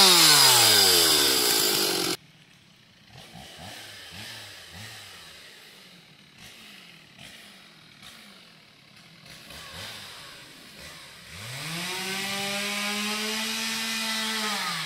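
Petrol chainsaw at full throttle that drops in pitch and cuts off abruptly about two seconds in. After a quieter stretch with faint short engine blips, it revs up again near the end and holds a high, steady note.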